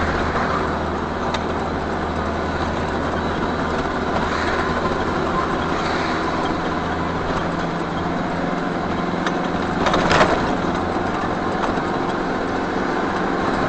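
Truck engine and road noise heard from inside the cab, running steadily, its low drone fading about eight seconds in, with a brief hiss about ten seconds in.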